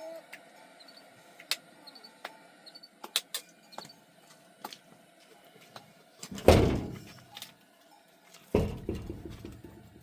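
Two heavy thumps about two seconds apart, each dying away over about a second, over a few light clicks.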